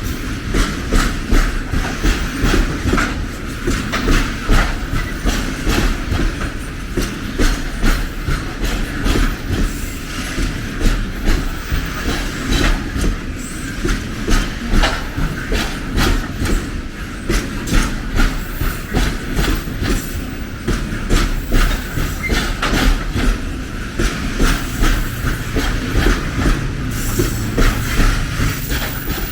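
A train running past on the track, its wheels clattering steadily over the rail joints in a continuous run of clicks.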